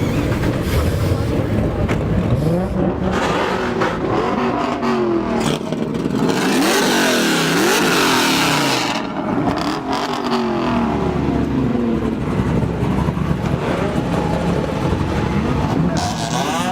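Car engines revving hard again and again, their pitch sweeping up and down, with a loud rushing noise lasting a few seconds in the middle.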